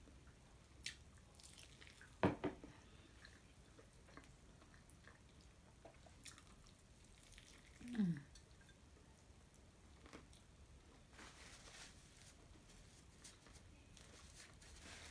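Close-up eating sounds of fried chicken: scattered wet chewing, squishing and mouth clicks, with a sharp click about two seconds in. A short falling hum of the voice comes at about eight seconds.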